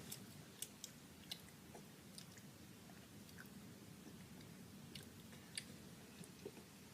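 Faint chewing of Skittles Sour candies: soft, scattered clicks and mouth sounds, a few slightly sharper ones spread through.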